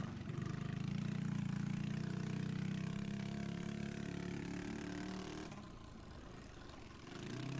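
Pit bike engine running steadily on throttle, then easing off to a lower, quieter note about five and a half seconds in and picking up again near the end.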